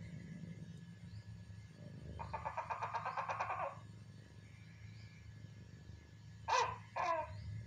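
Persian cat giving two short, falling meows near the end. About two seconds earlier there is a rapid run of chattering chirps lasting about a second and a half.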